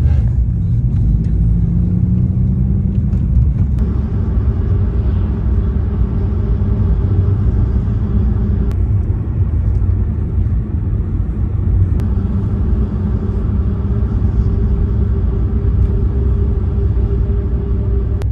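Car driving, heard from inside: steady low road and engine rumble, with the engine note rising over the first few seconds as the car speeds up.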